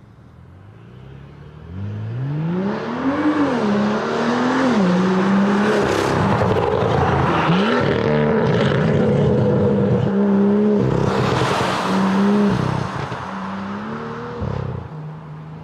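A sports car's engine revving loudly through its exhaust. The pitch climbs and drops several times and holds high in between, then falls away near the end.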